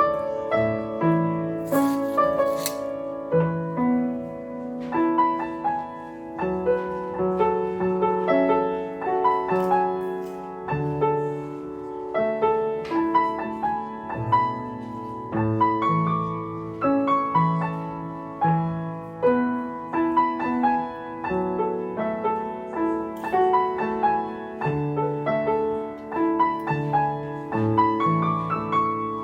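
Background piano music, a gentle melody of notes that change in a steady rhythm.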